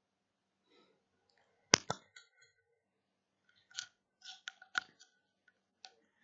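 Scattered sharp clicks and taps of computer keyboard keys: a pair just under two seconds in, then a cluster of several more around four to five seconds.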